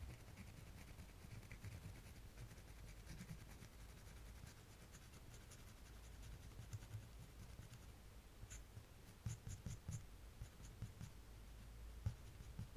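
Faint scratching of a drawing tool moving over paper, with a few light ticks and taps about two-thirds of the way through.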